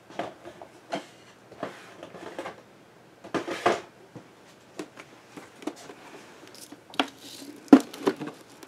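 Handling noises: scattered clicks, taps and rustles as small objects are picked up and set down on a work table, with a longer rustle a little after three seconds in and a sharp click near the end.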